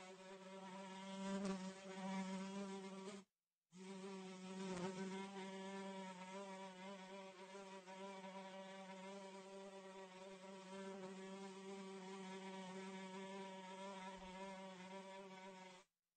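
Housefly buzzing in flight, a steady, slightly wavering drone from its beating wings, pitched near 200 Hz with many overtones. It breaks off briefly a little over three seconds in, then resumes and cuts off near the end.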